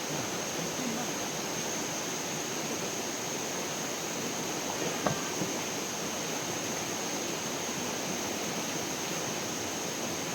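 Steady rush of flowing stream water, with one short knock about halfway through.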